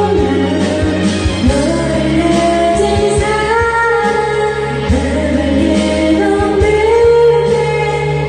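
A karaoke song: a voice singing a melody over a backing track with a steady beat.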